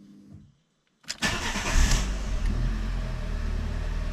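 Fiat Punto Evo's FIRE 1.2 four-cylinder petrol engine starting about a second in, then settling into a steady idle. It is heard from inside the car's cabin.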